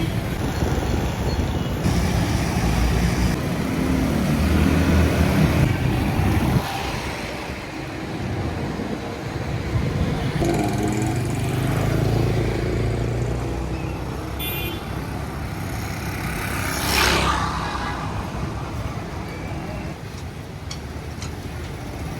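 Busy street traffic: vehicle engines running steadily, with a short horn toot about two-thirds through and a brief louder burst of noise soon after.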